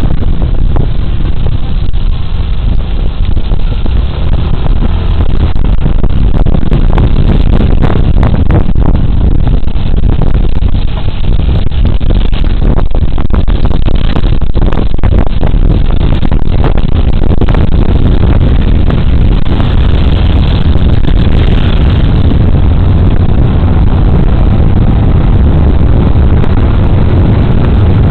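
Riding a Suzuki Burgman Street 125 scooter: its single-cylinder engine and road noise run under loud wind rumble on a body camera's microphone. Scattered knocks and crackles come through in the middle stretch.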